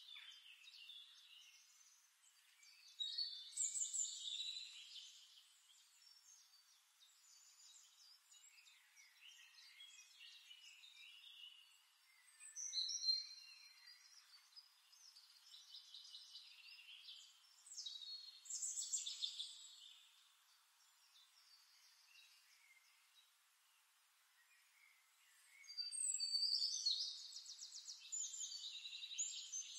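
Birds chirping and singing faintly, in separate bursts of chirps and short whistled glides. Near the end comes a longer, fast trill.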